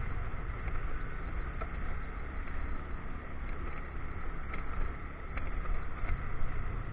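Motorcycle on the move: its engine runs steadily under a constant rush of wind and road noise.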